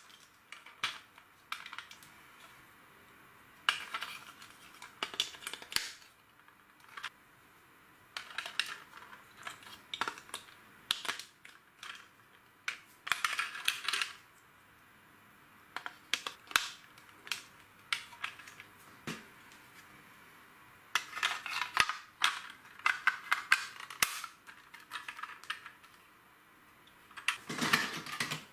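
Plastic LEGO bricks clicking and clattering as they are handled and pressed together, in short bursts of rapid clicks with pauses between.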